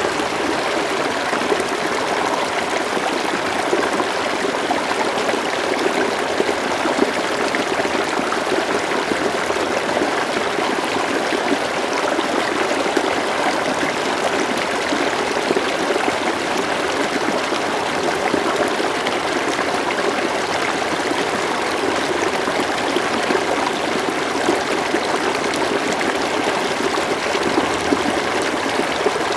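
River water flowing steadily over stones: a continuous babbling and trickling, even in level throughout.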